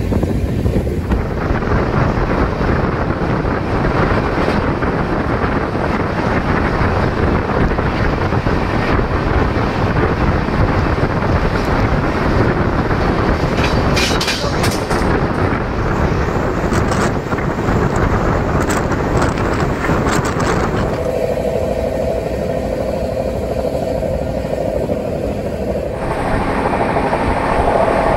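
Poorva Express passenger train running at speed, heard from the coach: a loud, steady rumble and rattle of wheels on the track. The sound changes abruptly about three quarters of the way in, and a steady hum joins the running noise.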